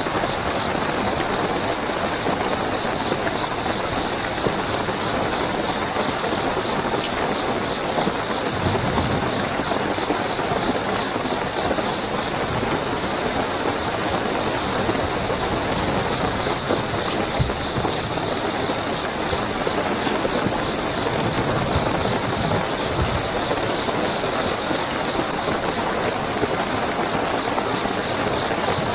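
Steady heavy rainfall with crickets chirping in a constant high-pitched trill, and a few brief low rumbles.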